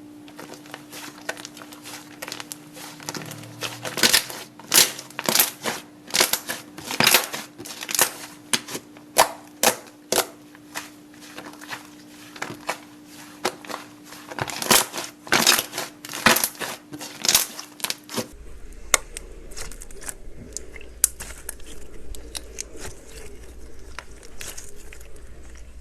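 Slime being squeezed and pressed by hand, giving sharp crackles at irregular intervals about every half second to a second. About eighteen seconds in it cuts to another slime with fainter, denser crackles.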